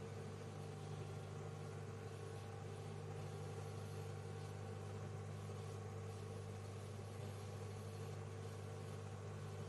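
Microwave oven running: a steady, unchanging hum, a low drone with a fainter higher tone over a soft even hiss.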